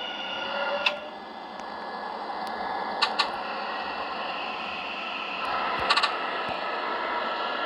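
Seoul subway Line 2 train heard inside the car: a steady running noise with faint electric whines, and a few sharp clicks and rattles about a second in, at three seconds and at six seconds.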